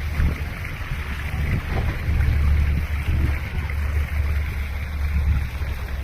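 Steady low rumble aboard a boat at sea, with wind noise on the microphone swelling and easing.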